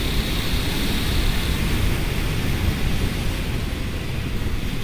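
Wind rushing over the microphone as a 1997 Honda CBR900RR Fireblade is ridden along at speed, a steady rumble with the motorcycle's running underneath.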